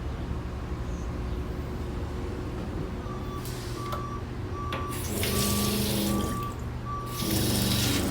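A truck's reversing alarm beeping at an even pace, starting a few seconds in, over a steady low engine rumble. Several loud bursts of hiss come through partway in.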